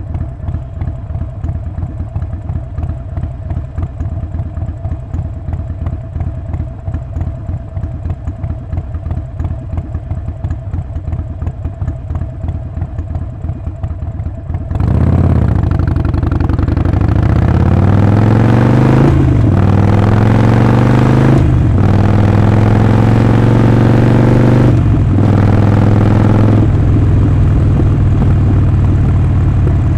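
Harley-Davidson Sportster Forty-Eight's 1200 cc air-cooled V-twin idling with an uneven pulsing beat, then about halfway through it gets much louder as the bike pulls away. The revs climb and drop three times through the upshifts before settling into a steady cruise near the end.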